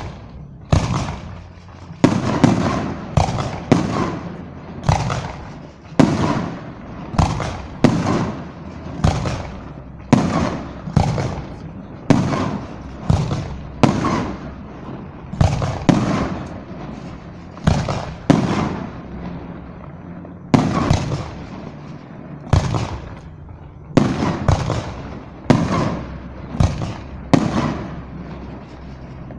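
Aerial firework shells bursting in quick succession, a sharp bang about every second, each followed by a short echoing tail.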